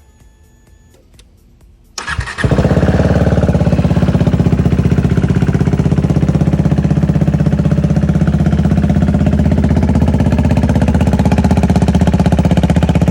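KTM motorcycle engine started about two seconds in, catching almost at once and settling into a loud, steady, evenly pulsing idle.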